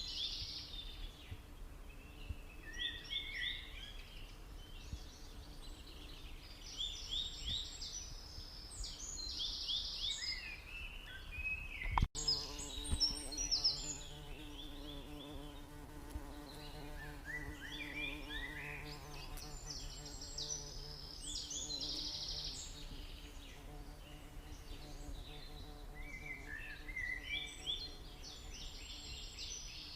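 Domestic canary singing: long phrases of rapid, high trills and chirps, each phrase several seconds long with short pauses between. A single sharp click about twelve seconds in.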